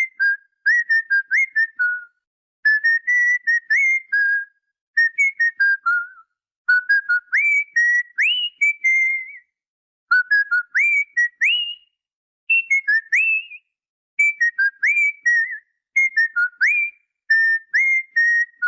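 Cockatiel whistling a tune: short phrases of clear whistled notes with quick upward slides, repeated with brief pauses between them.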